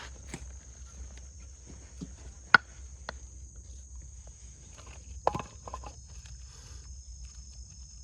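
Firewood being split by batoning: a few sharp knocks, the loudest about two and a half seconds in and a short cluster a little after five seconds. Insects drone steadily at a high pitch throughout.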